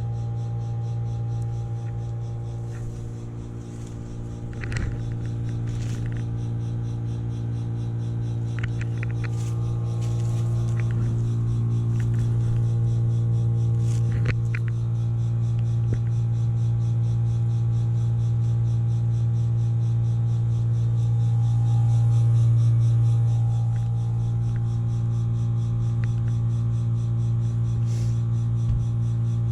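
Vintage BDP 3-ton heat pump outdoor unit running with a steady, loud electrical hum and overtones, and a few sharp clicks and ticks scattered through it.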